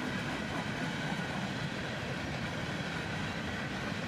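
Freight train cars rolling past: a steady rumble of wheels on the rails.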